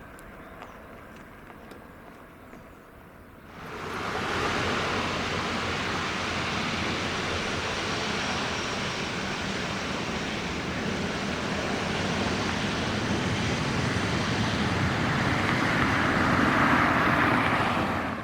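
Airbus A350-900's Rolls-Royce Trent XWB turbofans at takeoff power, heard as a loud, steady jet roar. It starts abruptly about three and a half seconds in after a quieter rumble, then swells a little near the end.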